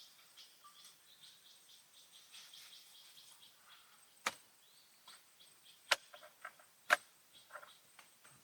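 Faint bird chirps and insect calls, broken by three sharp clicks in the second half, about a second and a half and then a second apart.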